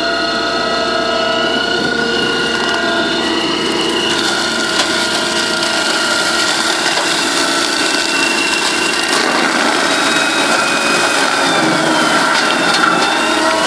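Cat 299C compact track loader running hard with its HM315B mulcher head spinning and grinding through brush: a loud, steady machine whine over a rough shredding noise. The cutting noise thickens about four seconds in, and the whine dips and climbs again near the end as the load changes.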